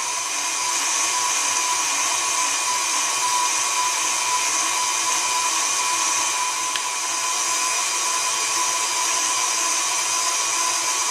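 KitchenAid stand mixer motor running steadily at speed 4, driving the food grinder attachment as orange slices are fed through; a constant motor whine with a high hiss.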